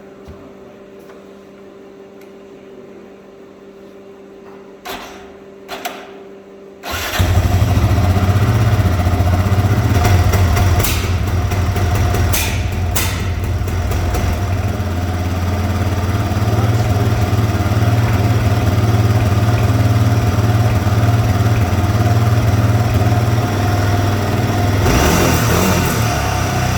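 A few faint clicks over a low steady hum, then about seven seconds in a Raptor ATV engine starts and settles into a steady run, a little brighter in tone near the end.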